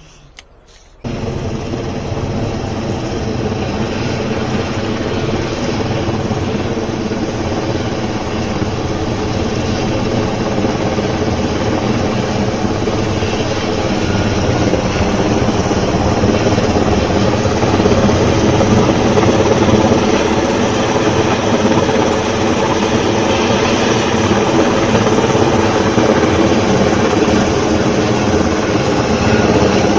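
Helicopter running close by, a steady rotor and turbine drone with a stack of even tones, starting abruptly and slowly getting louder.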